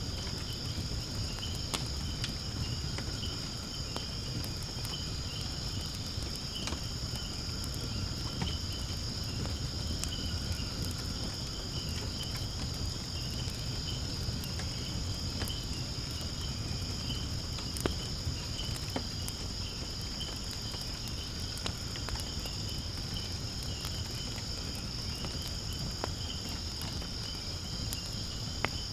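Firewood burning in a fire pit, crackling with scattered sharp pops over a low steady rush, against a continuous high-pitched trilling of insects.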